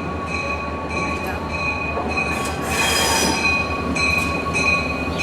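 Western Maryland GP30 diesel locomotive, an EMD 16-cylinder 567 engine, rolling slowly in with a low engine rumble and a steady high-pitched squeal from its running gear. A rushing hiss rises about halfway through and fades again.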